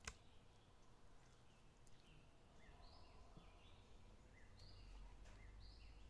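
Faint small-bird chirps, a short call about every second, over quiet outdoor background noise, with a single sharp click right at the start.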